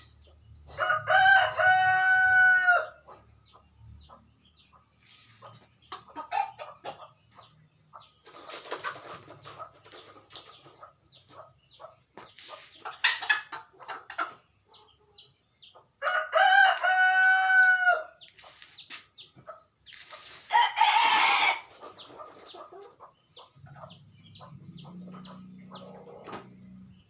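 Ayam kate bantam rooster crowing twice, each crow about two seconds long, the first about a second in and the second about sixteen seconds in. Shorter, rougher chicken calls come in between.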